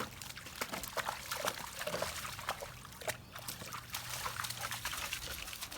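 A dog splashing through shallow puddles in truck wheel ruts, a string of irregular splashes and dribbles of water.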